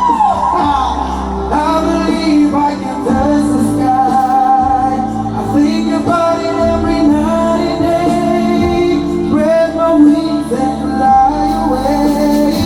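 A solo singer performing a slow pop ballad live over backing music, with long held, gliding vocal notes.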